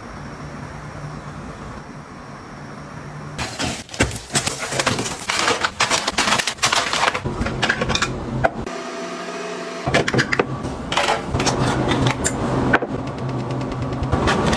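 Small objects being handled and set down: a dense run of clicks, taps and rustles that starts about three seconds in, over a low steady hum.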